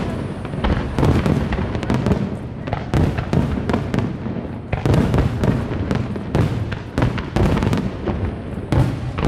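Aerial fireworks shells bursting in a rapid barrage: deep booms and crackles one on top of another, with the loudest bursts about once a second.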